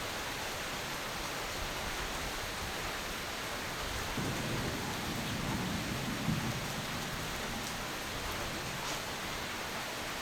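Steady rain, with a low rumble of thunder starting about four seconds in and lasting a few seconds.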